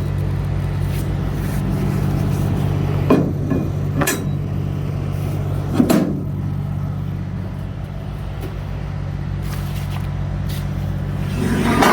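Big rig's diesel engine running with a steady low drone, heard from inside the cab, with a few sharp clunks and rattles about three, four and six seconds in and again near the end.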